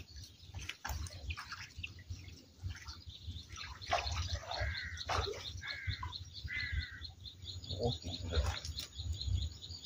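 Small birds calling: three short arched chirps in the middle, over a fast, even high ticking of about five ticks a second that starts near the middle.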